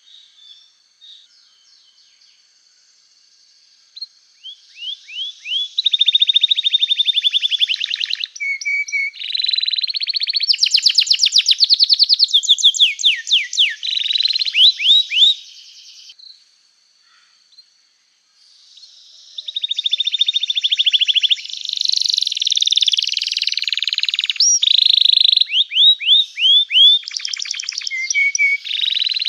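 Domestic canary in full song: long, fast trills of rapidly repeated notes, mixed with runs of short downward-sweeping 'cuit' whistles. It starts up about four seconds in and pauses briefly about halfway through.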